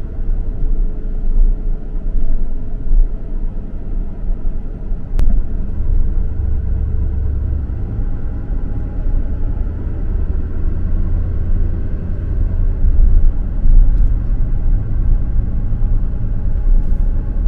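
Car rolling slowly, heard from inside: a steady low rumble of engine and tyres, with a faint steady engine tone and one small click about five seconds in.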